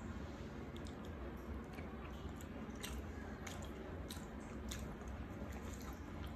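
A person chewing a mouthful of grilled egg dipped in chili sauce, with soft smacking clicks of the mouth scattered through the middle few seconds, over a steady low hum.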